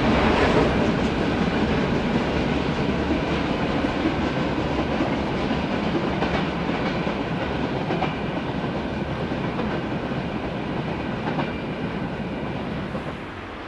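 Freight train wagons rolling past on the rails, wheels clacking over rail joints, the sound slowly fading and dropping off near the end as the train moves away.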